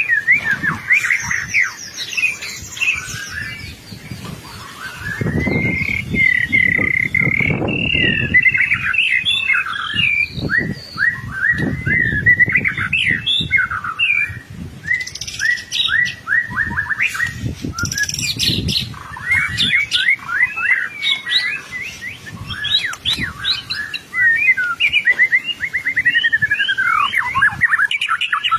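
White-rumped shama (murai batu) singing almost without pause: a long, varied song of quick whistled phrases, trills and chattering notes. A low rumble comes and goes underneath, most of all about a quarter of the way in.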